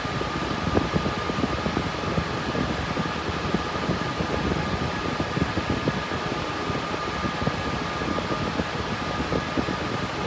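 Cooling fans of an RTX 3060 Ti graphics-card mining rig running steadily under load: an even rush of air with a faint steady whine on top.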